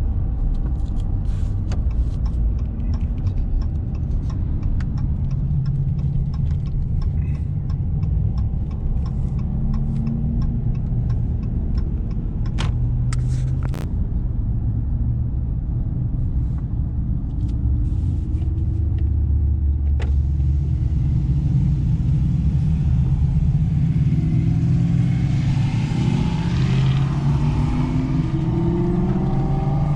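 T-bucket hot rod's engine running under way, its pitch shifting up and down as it drives, with the revs climbing several times near the end as it accelerates.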